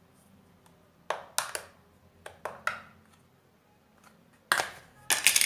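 Small plastic clicks and clatter of a Jio Phone feature phone being handled as its back cover is opened and its battery fitted: a few light clicks, then a louder run of rattling clicks near the end.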